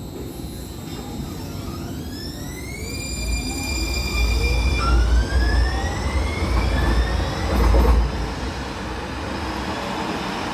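Muni Metro Siemens light rail car pulling out of an underground station: its traction motors whine, rising in pitch in two steps as it accelerates, over a low rumble that peaks midway and then fades.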